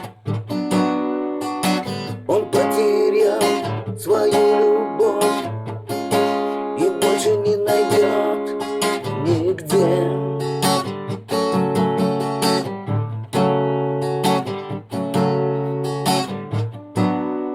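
Instrumental break in a Russian chanson song: strummed acoustic guitar chords, with a sliding, wavering lead melody over them through the first half that then drops out, leaving the strummed chords.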